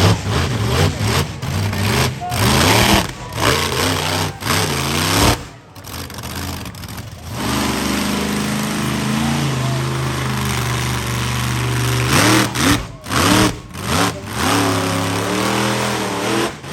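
Monster truck engine revving hard in repeated surges during a freestyle run. The revs drop off briefly about five seconds in, hold steady for a few seconds in the middle, then surge up and down again.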